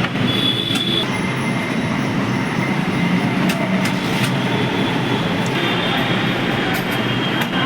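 Bosch electric drill motor running steadily with a high whine, with a few light clicks.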